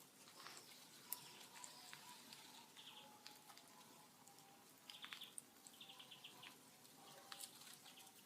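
Faint crackling and popping of a large wood bonfire, with a thin whistle-like hiss and a few short clusters of high chirps.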